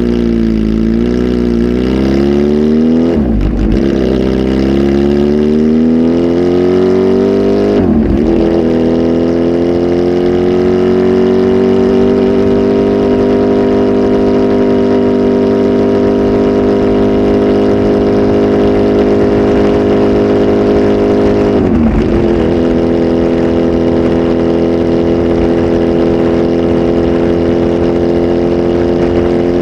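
Kawasaki Z H2 SE's supercharged inline-four, flash-tuned and breathing through a full exhaust system, running hard. Its pitch climbs with sharp breaks about 3 and 8 seconds in, then holds at steady revs, with one more brief break about 22 seconds in.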